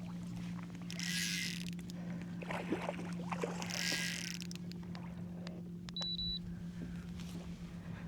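A steady low hum, like a small motor, runs under soft swishing hisses that come every couple of seconds, with faint clicks and one short high beep about six seconds in.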